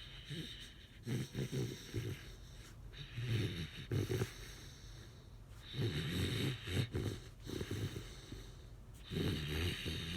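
Airedale terrier puppy snoring in its sleep: a rattling snore on each breath, about five in all, roughly every two seconds, with quieter breathing between.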